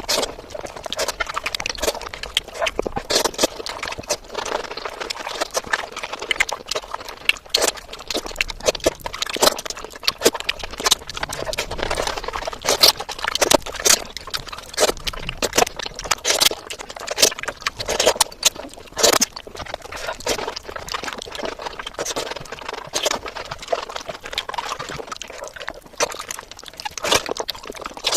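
Close-miked chewing and wet lip-smacking of a person eating fish curry and rice: a rapid, irregular stream of moist clicks and squelches.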